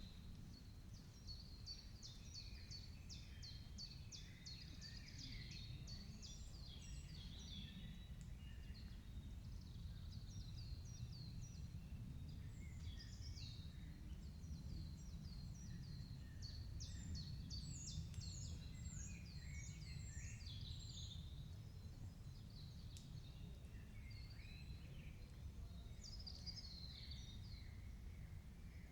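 Several songbirds singing and calling at once, quick trills and chirps that overlap and run on without a break, over a faint low steady rumble.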